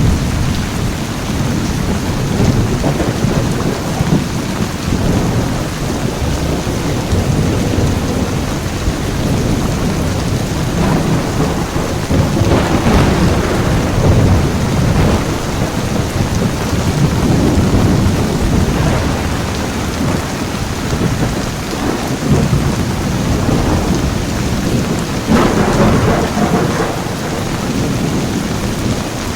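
Heavy rain pouring steadily with continuous low thunder rumbling through it. The thunder swells several times, most strongly around the middle and again near the end.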